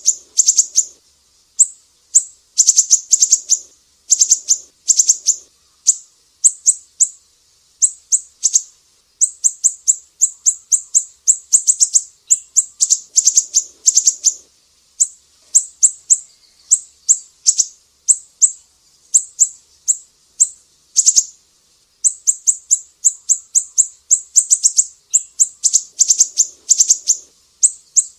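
Sumatran siri-siri singing: phrases of rapid, sharp, high-pitched chirps, each phrase lasting one to a few seconds, repeated with brief pauses.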